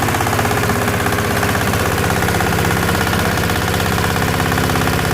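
SM-30 organic waste shredder-grinder running steadily on its engine, with a fast, even pulsing throb.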